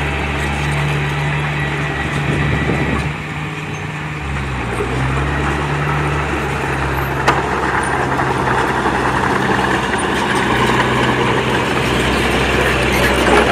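Diesel engine of heavy earthmoving machinery running steadily. Its note drops about three seconds in and comes back up a couple of seconds later, with one sharp click about seven seconds in.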